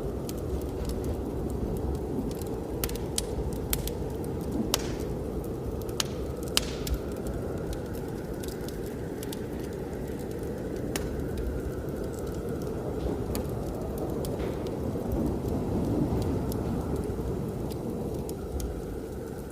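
Wood fire in a fireplace crackling, with scattered sharp pops, a few louder ones about five and six and a half seconds in, over the steady low rush of blizzard wind.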